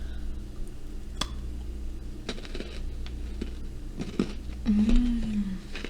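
Someone biting and chewing a crunchy chocolate stick: a few scattered crunches and clicks, then a short closed-mouth 'mmm' hum near the end.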